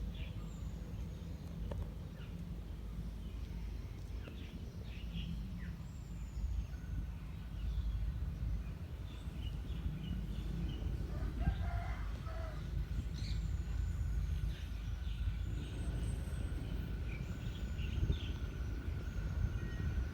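Birds chirping and a rooster crowing about midway, over a low steady rumble. A thin steady high tone sets in about a third of the way through and holds.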